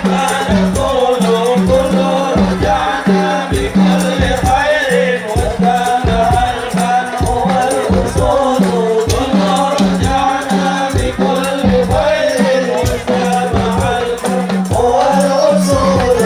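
Islamic shalawat devotional song sung by a group of voices over dense, steady percussion with rattling hand-percussion.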